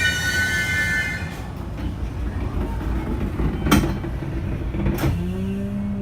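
E653 series 1100 electric express train coming to a stop: a high wheel squeal dies out about a second in, leaving a low rumble. Two sharp clicks follow, and a low steady hum starts near the end.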